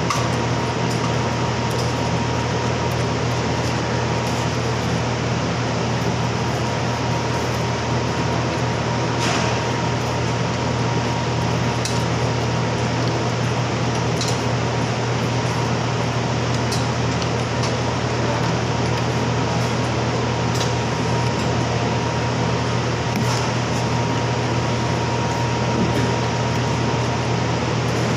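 Steady hum of a room cooling fan, with a thin high tone over a low drone and a few faint clicks.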